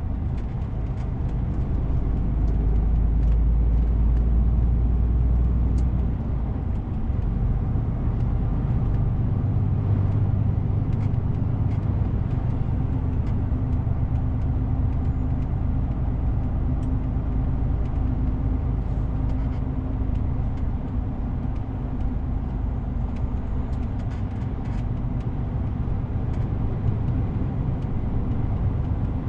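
DAF CF 450 truck's diesel engine running while driving, with steady road noise. The engine hum shifts in pitch a few times as its speed changes.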